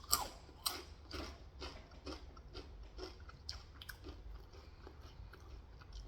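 Close-up chewing of crunchy snack chips, a steady run of crunches about two a second that grow fainter as the mouthful is broken down.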